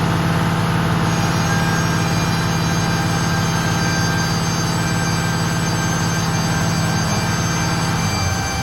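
Mercedes air brake system at full pressure, making a steady droning hum with higher whining tones over the running engine: the abnormal sound under investigation. The main hum stops near the end.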